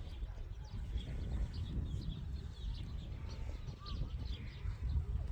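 Small birds chirping faintly and repeatedly over a steady low rumbling noise.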